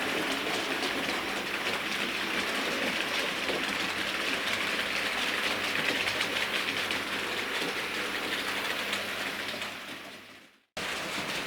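Model train running along layout track, its wheels clicking rapidly over the rail joints. The running sound fades out near the end, then cuts in again abruptly.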